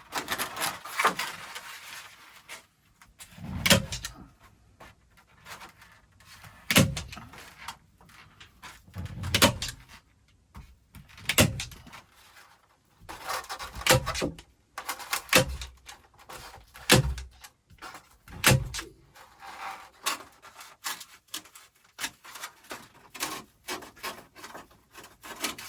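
Foam rafter vents (Moore vents) being fitted and stapled between ceiling joists: a dozen or so sharp, irregularly spaced staple-gun shots, with the foam pieces rustling and scraping between them.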